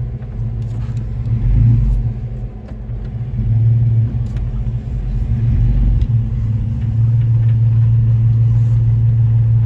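A pickup's 4.3 V6 engine pulling the truck down the road: a steady low drone that swells louder a couple of times and holds loudest near the end.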